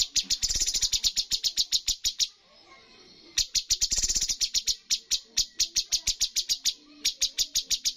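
Cucak cungkok calling: a rapid chatter of sharp, evenly repeated notes, about ten a second, in long bursts with a pause of about a second a little after two seconds in.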